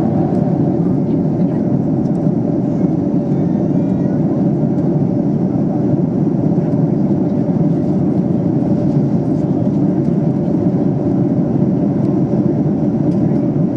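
Steady in-flight cabin noise of a Boeing 737-800: its CFM56 turbofan engines and the airflow over the fuselage make a constant deep rushing drone with a faint steady hum on top, heard from a window seat.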